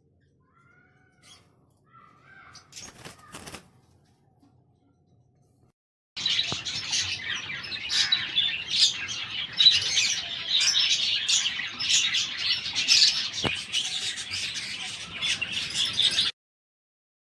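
Small cage birds chirping and chattering: a few faint chirps at first, then a dense, loud chorus of quick high calls from many birds that starts abruptly about six seconds in and cuts off suddenly near the end.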